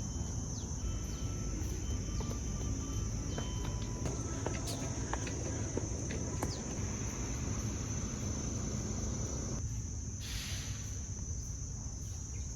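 Insects, likely crickets, chirring in one steady high-pitched drone over a low background rumble.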